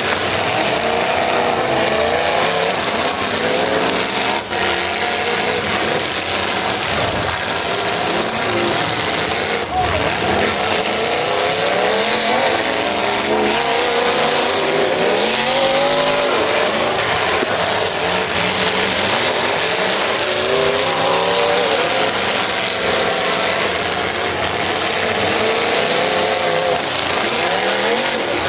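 Several demolition derby cars' engines revving hard at once, their pitches sliding up and down and overlapping continuously as the cars drive and ram each other.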